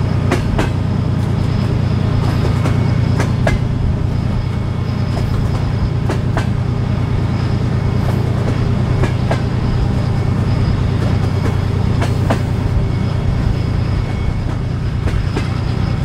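Passenger train running along the line with the diesel locomotive's engine giving a steady low hum, with scattered clicks of the wheels over the rails, heard from an open carriage window.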